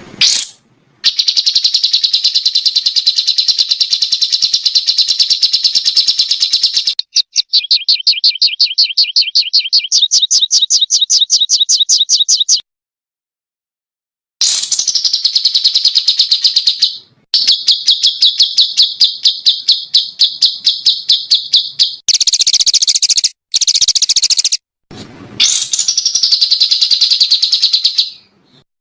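Small songbirds giving rapid, machine-gun-like trills of very fast repeated high notes, the 'tembakan' song type used as masteran for competition birds. Several runs in a row, each cutting off abruptly, with the pitch shifting about seven and ten seconds in.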